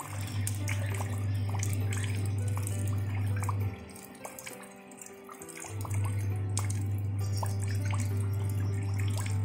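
Rain drops and dripping water splashing into a shallow puddle, with slow background music on top whose deep held bass note is the loudest sound and drops out for about two seconds midway.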